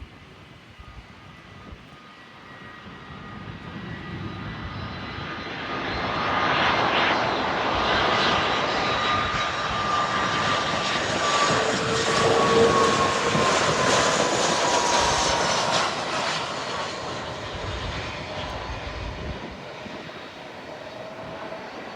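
Airbus A319 jet airliner flying past low on short final approach. The engine rush builds over the first several seconds, stays loud through the middle with a whine that slides slowly down in pitch as the aircraft passes, then fades.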